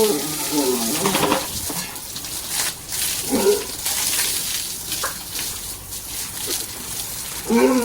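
Water splashing and sloshing on a pig pen floor during cleaning, with pigs calling out in short pitched calls a few times.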